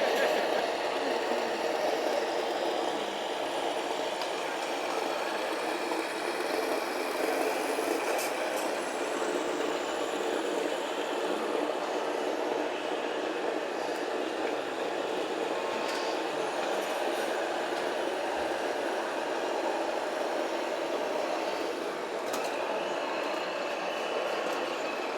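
Steady mechanical running noise from RC model trucks and machines working, with a faint high whine joining in near the end.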